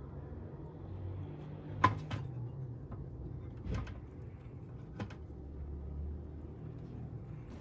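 Three sharp knocks or clacks, the first the loudest, over a low steady rumble.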